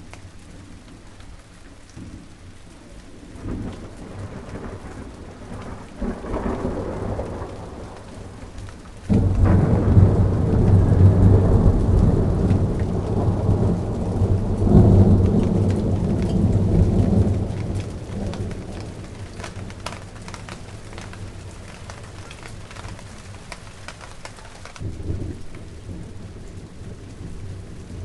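Steady rain falling on a garden, with a loud rumble of thunder that breaks in suddenly about a third of the way through and rolls on for several seconds before fading; softer rumbles come before it.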